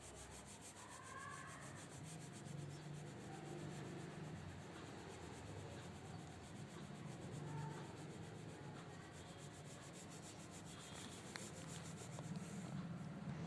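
Faint, steady scratching of brown colour being rubbed back and forth on drawing paper while a shape is filled in.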